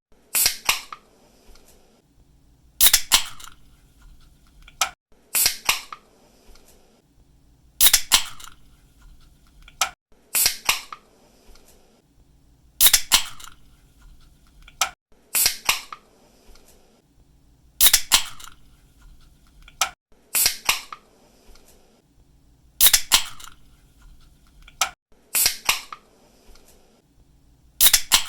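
Aluminium drink can opened by its pull-tab, over and over: a sharp snap, then a brief fizz of escaping gas. It repeats about every two and a half seconds, eleven or twelve times.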